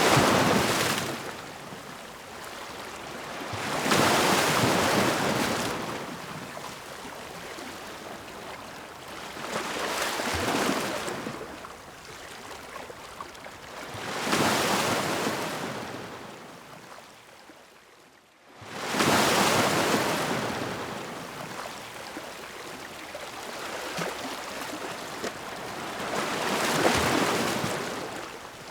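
Ocean surf: waves breaking and washing ashore, each one swelling up and fading away, about every four to six seconds.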